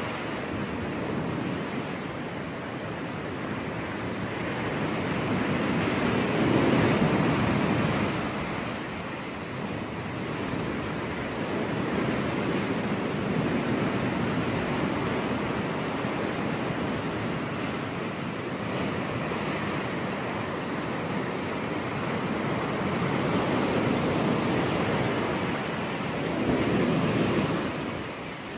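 Ocean waves breaking on a beach, a continuous surf wash that swells and recedes every several seconds as each wave comes in.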